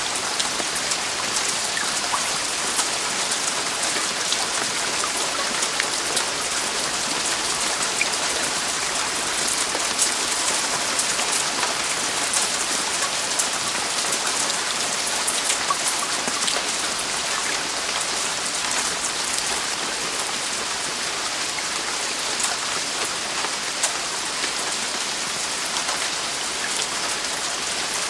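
Heavy rain falling steadily on a roof, a dense even hiss with many small drop taps.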